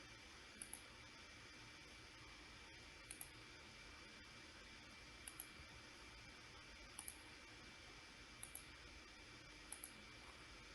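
Computer mouse double-clicks, six pairs of quick clicks a second or two apart, over faint room hum.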